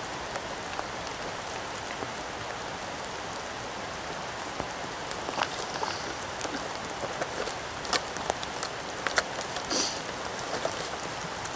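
Heavy rain falling steadily on the woods, with scattered sharp taps of drops from about halfway through.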